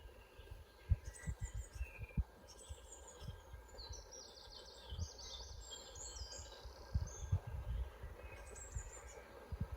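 Forest birds chirping and singing, with a busy run of quick high notes near the middle. Underneath are low thuds and rumble, which are the loudest sounds here.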